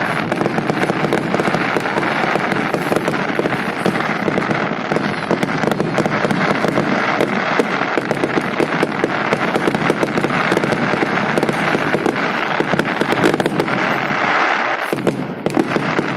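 Holiday fireworks salute: a dense, unbroken run of crackling and popping shell bursts.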